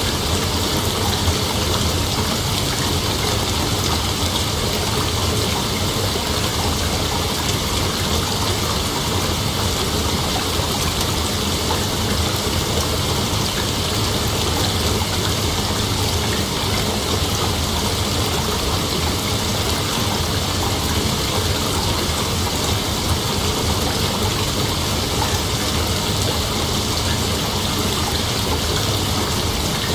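Continuous night ambience: a dense, even hiss with no breaks, brightest in the upper-middle range, over a steady low rumble.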